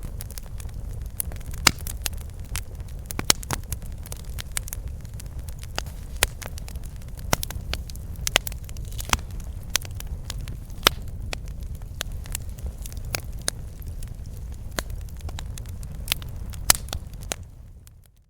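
Wood campfire crackling, with irregular sharp pops and snaps over a steady low rumble of the burning fire. The sound fades out near the end.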